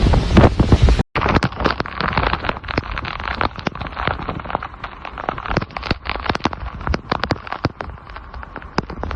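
Storm wind buffeting the microphone. About a second in it cuts off sharply, and heavy rain follows, striking a hard surface with a dense, irregular run of sharp ticks.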